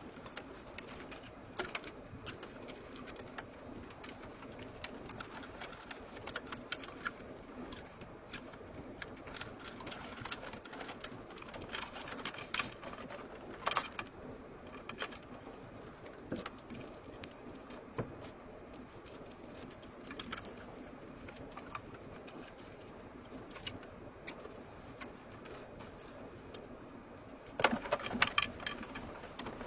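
Scattered small clicks and taps over a steady faint hum, with a louder, denser run of clicks near the end.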